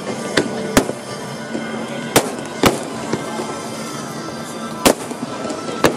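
Fireworks display: aerial shells bursting in a string of sharp bangs, about six at irregular intervals, over a steady background of noise.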